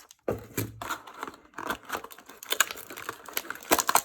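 Trading cards and their plastic packaging being handled, with irregular crinkling and clicking. The loudest cluster comes near the end.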